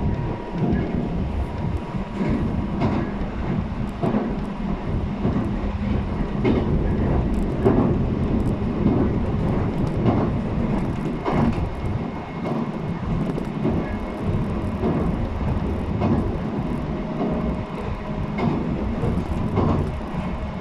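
Running noise heard aboard a JR East 719-series electric train at speed: a steady rumble with repeated wheel clacks over the rail joints and a faint tone that comes and goes. The car is labelled an abnormal-noise car (異音車).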